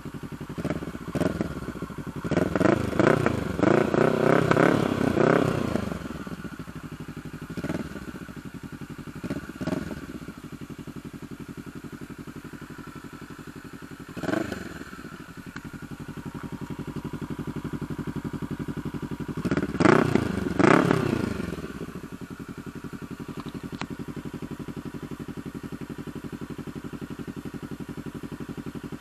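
Kawasaki Ninja 650's parallel-twin engine through a Mivv Mk3 aftermarket exhaust, idling steadily. It is blipped rapidly on the throttle in the first few seconds, with a few single blips after that and two sharp revs about two-thirds of the way through.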